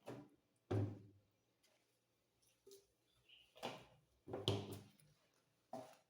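Several separate knocks and thuds of things being handled and set down during kitchen cleaning, the loudest about a second in and about four and a half seconds in.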